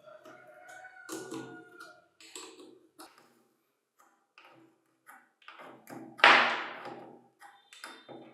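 Metal parts and hand tools tapping and clinking during reassembly of a concrete vibrator. A struck part rings briefly near the start, and there is one louder clatter about six seconds in.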